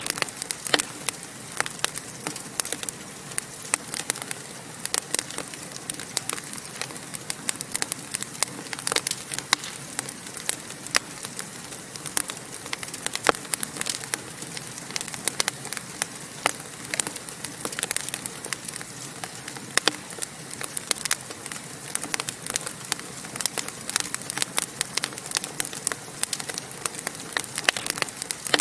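Wood fire crackling and popping steadily, with many sharp irregular pops over a soft hiss of burning.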